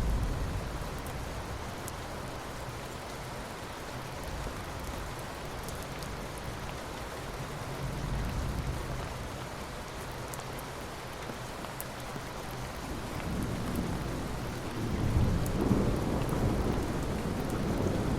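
Steady rain falling with rolling thunder: a low rumble swells about eight seconds in, and a longer, louder rumble builds from about thirteen seconds in and grows toward the end.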